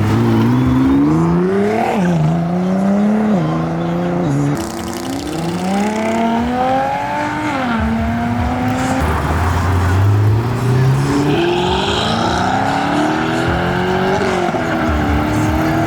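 Car engines accelerating hard through the gears, the pitch climbing and then dropping sharply at each upshift, with a second car's run starting about ten seconds in.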